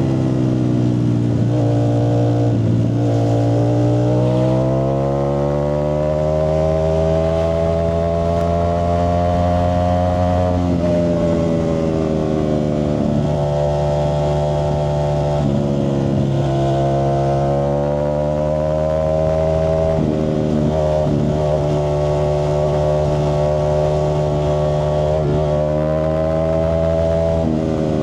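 Ducati Streetfighter V4S's 1103 cc V4 engine running through a Zard exhaust. Its note climbs slowly in pitch, then drops suddenly about ten seconds in. It climbs and drops again several more times, near 16 s, 20 s and near the end.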